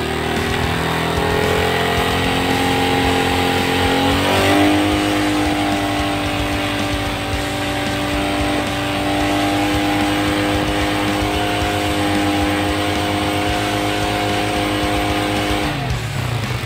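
Motorcycle engine running at raised revs. Its pitch climbs at first, steps up again about four seconds in, holds steady, then drops back near the end. The engine is running while the coil's spark is tested at the spark plug, with the plug lead held just off the plug terminal.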